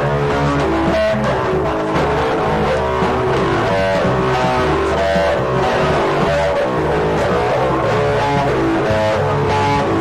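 Band music without singing: guitar playing over a bass line.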